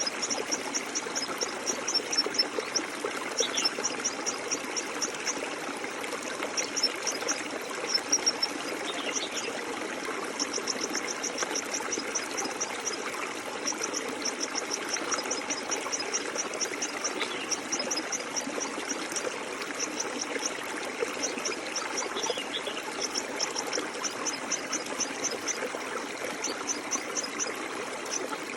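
Small stream flowing and trickling steadily. Over it, birds repeat runs of rapid, high chirps lasting a second or two, now and then with a short falling note.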